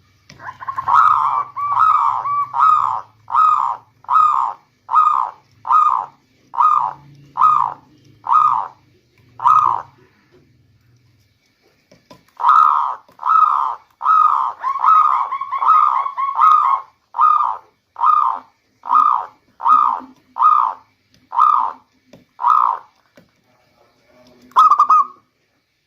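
Zebra dove (perkutut) singing: two long series of cooing notes, about one a second, coming a little faster at the start of each series, with a pause of about two seconds between them and a single note near the end.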